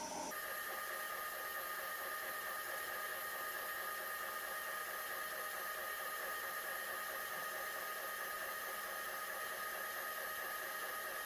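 Electric stand mixer running steadily, its motor giving a constant whine as it beats an egg, sugar, honey and oil batter.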